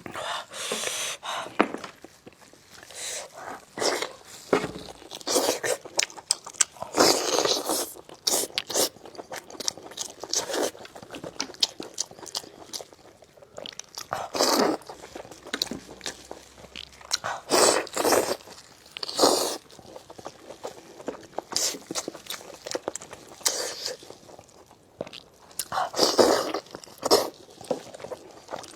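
Close-up chewing and biting of braised spicy lamb chops, in irregular bursts of wet crunching and mouth sounds with short pauses between bites.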